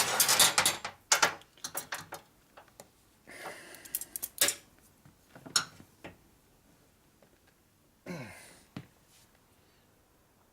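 Metal clanks, knocks and scrapes of a bent pipe being handled and bent on a workbench, with a scraping rush at the start and another about three seconds in, and sharp knocks scattered between.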